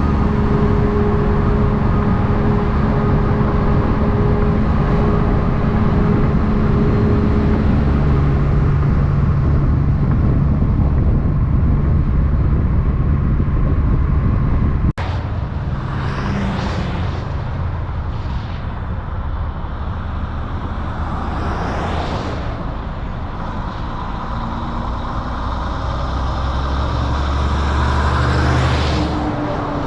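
A big-rig truck's diesel engine running steadily, its note dropping to a lower pitch about eight seconds in. It cuts off abruptly halfway through to road traffic, with several vehicles passing one after another, the last one swelling loudest near the end.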